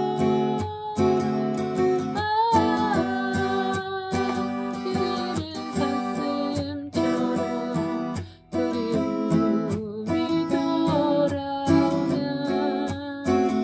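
Acoustic guitar music, chords plucked and strummed in a steady rhythm, with a brief drop near the middle.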